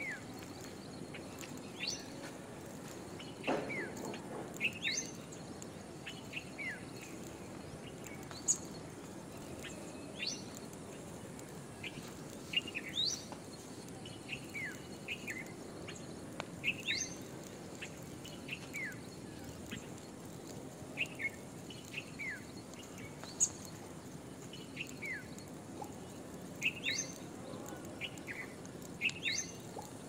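Small birds chirping: short, thin whistled notes, some rising sharply and some falling, come every second or two over a faint steady outdoor background.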